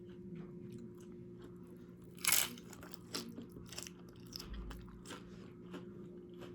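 Close-up crunching and chewing of nacho tortilla chips: a series of small sharp crunches with one louder bite about two seconds in.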